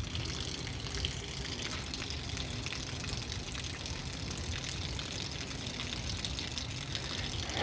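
Light rain falling, a steady hiss with a few faint ticks from drops.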